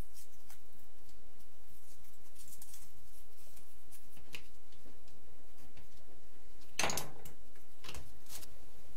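Scattered light clicks and rustles of paper or card being handled and cut, with a louder scraping swish about seven seconds in and a shorter one just after, over a steady low hum.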